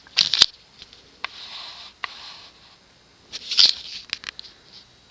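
Short bursts of rustling and scraping, one near the start and a louder one about three and a half seconds in, with a few light clicks between them.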